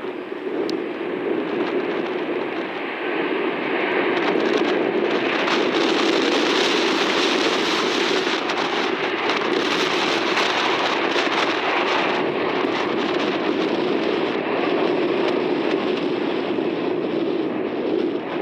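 Jet airliner engine noise mixed with heavy rain and wind on the microphone, swelling about four seconds in and easing slightly after the middle.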